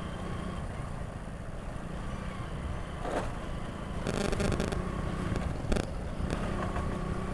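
Motorcycle engine running while riding, a steady low rumble with a faint engine tone, broken by a few short clattering knocks a few seconds in.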